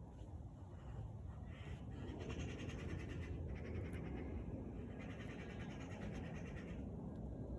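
Outdoor natural ambience: a low steady rumble that grows about a second in, with a rapid high trill heard twice, each lasting one to two seconds.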